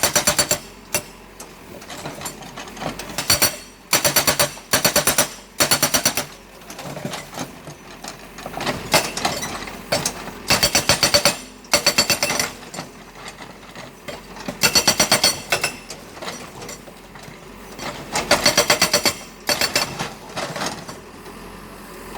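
GB90TL hydraulic breaker with a 90 mm chisel, on a CAT 424B backhoe loader, hammering in about a dozen short bursts of rapid blows, each under a second long, with pauses between them.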